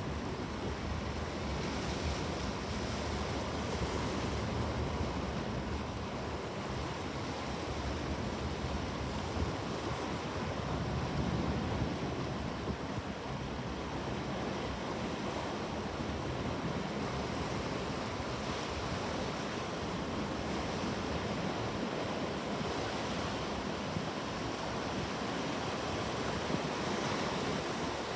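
Ocean waves: a steady rush of surf, swelling and easing slightly in level.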